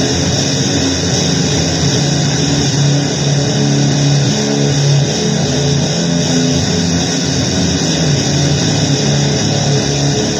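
Loud, dense distorted noise music: a thick hiss over low droning notes that step in pitch every second or so.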